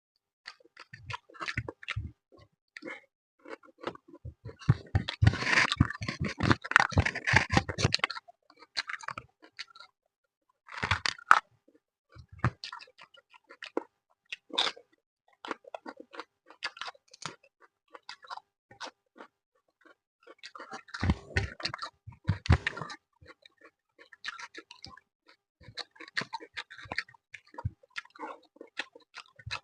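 Close-up chewing and mouth sounds of a person eating fish with rice, with two longer stretches of dense crunching, around four to eight seconds in and again around twenty-one to twenty-three seconds in.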